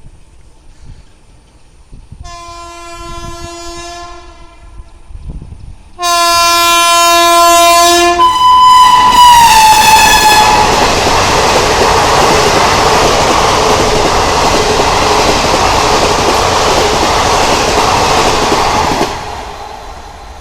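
An Indian Railways train sounds its horn twice on approach, the second blast much louder. The horn sounds again and drops in pitch as the train passes. Then comes the loud, steady rush and wheel clatter of the train passing at speed for about ten seconds, ending quickly near the end.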